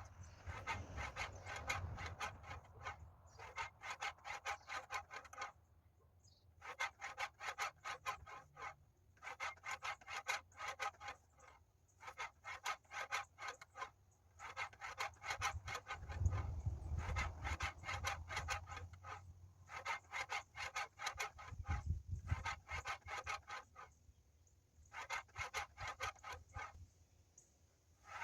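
Water-misted wet/dry sandpaper on a fixed-angle sharpening jig's head, stroked along a katana's edge. The rasping strokes are rapid and even and come in runs of a few seconds, with short pauses between them.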